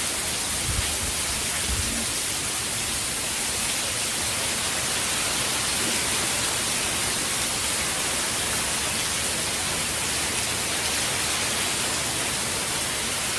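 Heavy rain from Hurricane Ian pouring steadily, a constant dense hiss.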